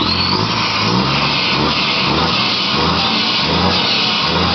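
Scania diesel engine being revved in a run of short, quick blips, each one a brief rise in pitch, about two a second.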